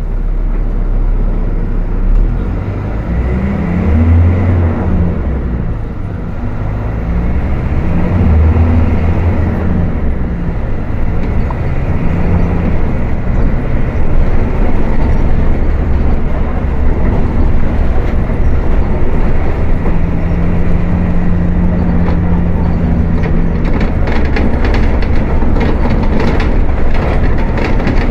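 Volkswagen 17.230 OD bus diesel engine running hard at high revs, its note rising and dipping several times, then holding steadier. Short clicks and rattles join in near the end.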